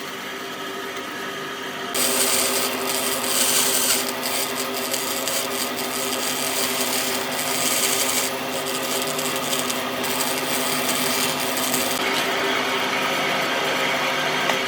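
An electric power tool running steadily on wood, a pitched motor hum under a dense hiss of cutting or abrading, which gets louder about two seconds in.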